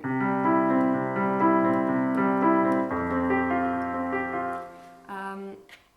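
Roland Juno-DS61 synthesizer playing a piano sound: sustained chords with a low bass note joining about halfway. The chord fades out near the end, followed by a brief few notes.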